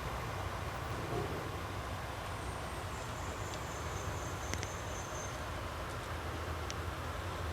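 Steady low rumble of a passenger train running along the line, with a few faint clicks and a thin high whine for about two seconds midway.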